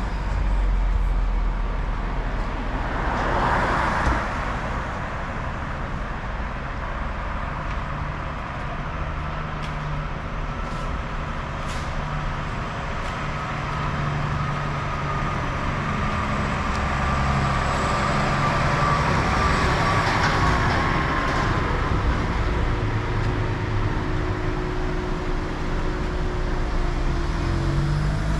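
Road traffic going past: cars and heavier vehicles swelling by, with engines running in the low range, over a steady low rumble of wind on the microphone. Two vehicles pass loudest, about three seconds in and again near twenty seconds.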